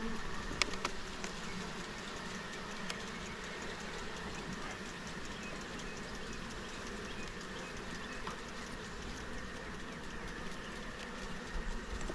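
Honeybees buzzing steadily around an opened hive, with a few light clicks about half a second in.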